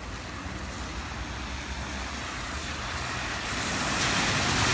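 Rushing floodwater, a steady noise that grows louder toward the end, with a low rumble of wind on the microphone.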